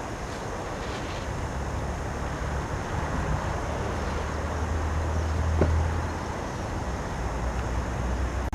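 Wind buffeting the microphone over the rush of water along a sailing boat's hull while under sail, with one light knock a little past the middle.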